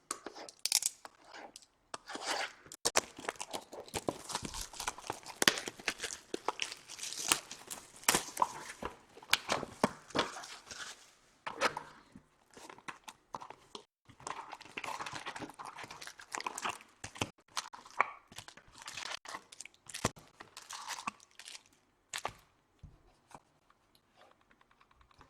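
Trading-card box and pack wrappers being torn open and crinkled: irregular tearing, crackling and snapping that thins out over the last few seconds.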